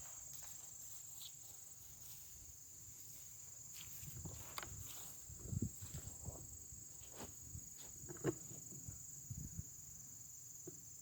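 Crickets trilling steadily and high-pitched, with scattered soft thumps and rustles in the middle, the sharpest about eight seconds in.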